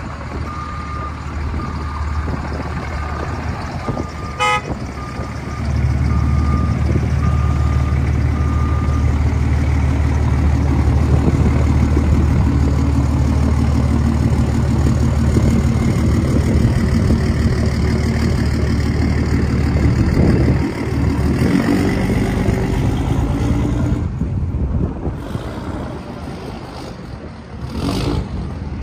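Ram pickup's 5.9-litre inline-six turbo diesel running steadily, becoming much louder and deeper about six seconds in. An electronic chime beeps about twice a second through the first nine seconds, and a single click sounds about four seconds in.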